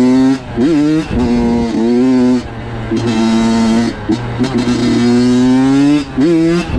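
Honda CR85 two-stroke dirt bike engine revving high, with the throttle chopped and snapped open again several times. The pitch dips and climbs back each time as the rider tries to keep it in the powerband for a wheelie.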